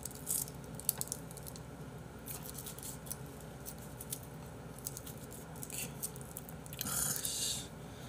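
Mouth-close eating sounds: chewing raw beef, with scattered small clicks and a short hiss near the end.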